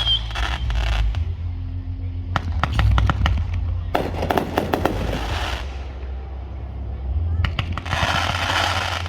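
Fireworks show: four volleys of rapid crackling pops, about a second in, around three seconds in, a longer one from about four to five and a half seconds, and another near the end, over a steady low rumble.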